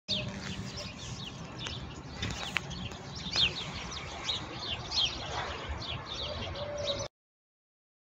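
Birds chirping: a steady run of short, falling chirps that cuts off suddenly about seven seconds in.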